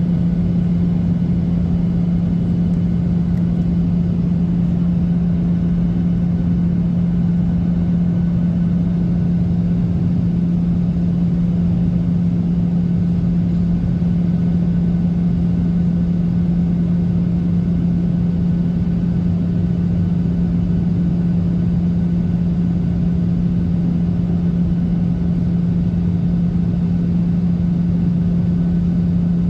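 Steady cabin noise of a Boeing 737-800 in flight, heard from a seat near the wing: an even rush of airflow with the drone of its CFM56-7B engines and a strong, constant low hum.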